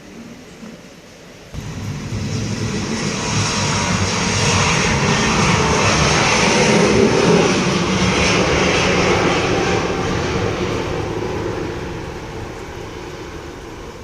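Twin-engine Airbus A320neo jet at takeoff power, a roar that comes in suddenly, swells to its loudest in the middle and then fades as the aircraft moves away.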